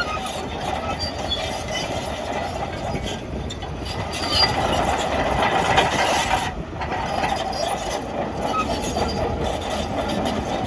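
Crawler bulldozer working, its steel tracks clanking and squealing over the steady run of its diesel engine.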